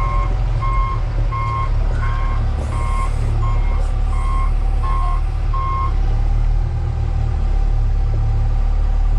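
Backup alarm beeping at an even pace, roughly three beeps every two seconds, stopping about six seconds in, over the steady low running of a heavy diesel engine.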